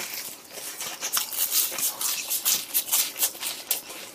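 Close-miked mouth chewing a crunchy breaded, deep-fried pork cutlet: a rapid, irregular run of crisp crunches and wet mouth clicks.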